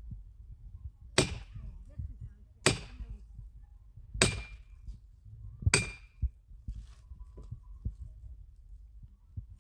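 An axe chopping wood: four sharp strikes about a second and a half apart, each with a brief metallic ring.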